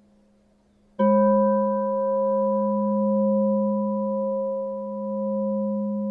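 Singing bowl struck once about a second in, ringing on with a few steady overtones that waver slowly in loudness, over the faint tail of an earlier ring.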